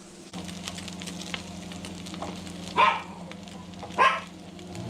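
Freshly caught fish frying in a pan: a steady sizzle with crackles over a low hum. Two short, louder sounds stand out about three and four seconds in.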